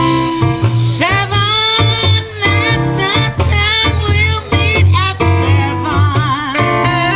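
Live band playing a swing-style number: a bass line pulses steadily under a sliding lead melody, which wavers with vibrato about six seconds in.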